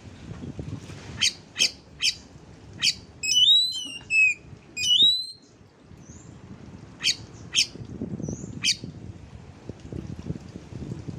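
Songbird calls played as training song material for oriental magpie-robins: a run of sharp chip notes, with two swooping whistled phrases a few seconds in, over a low background rumble.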